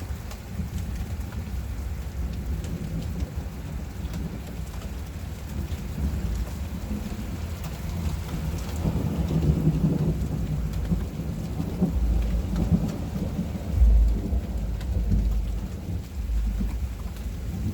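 Heavy rain falling steadily during a thunderstorm, with low rolling thunder that swells several times and is loudest about three-quarters of the way through.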